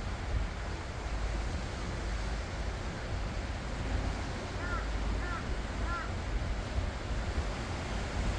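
Ocean waves washing onto the shore in a steady surf, with a low rumble of wind on the microphone. Three short high chirps come about halfway through.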